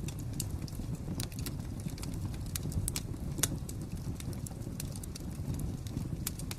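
Wood fire crackling: a steady low rumble of flames with irregular sharp pops and snaps, the loudest pop about halfway through.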